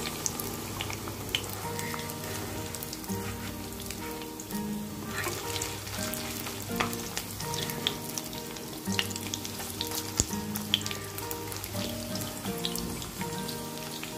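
Rice-and-vegetable cutlets shallow-frying in hot oil in a nonstick kadai: a steady sizzle with frequent small pops and crackles, and a wooden spatula now and then scraping as they are pushed and turned. Soft background music plays underneath.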